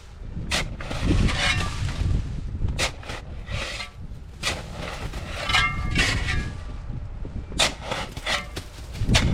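A tool scraping and striking at hard, ice-mixed snow in a string of irregular strokes, with a steady low wind rumble on the microphone.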